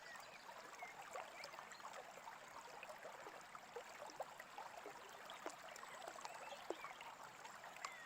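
Faint babbling of a small brook, with an even splashing trickle and a few brief, soft bird chirps.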